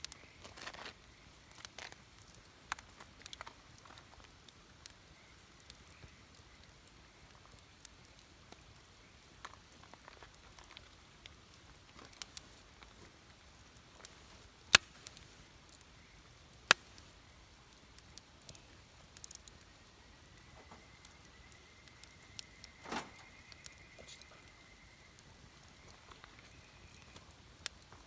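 Wood campfire crackling: scattered sharp pops and snaps of burning wood over a faint steady background, with two louder snaps a little past the middle.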